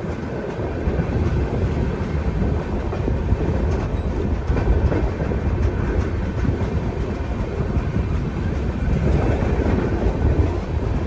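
Indian Railways passenger coaches rolling along the platform as the train arrives at a station, a steady rumble of wheels on rails heard from the side of the moving coach.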